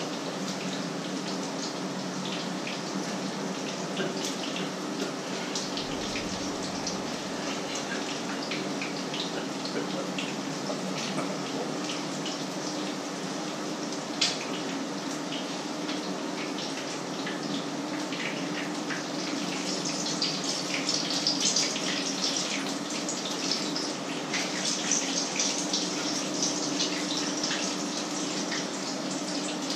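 Food frying in a pan of hot oil: a steady sizzle full of small crackles and pops, growing louder and busier about two-thirds of the way through.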